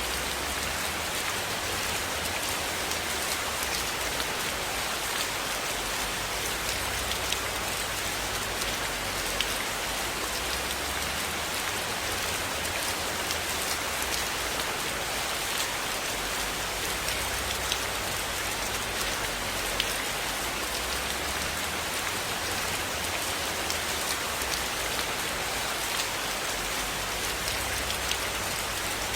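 Steady rain falling on a roof, a dense, even hiss with occasional sharp ticks scattered through it.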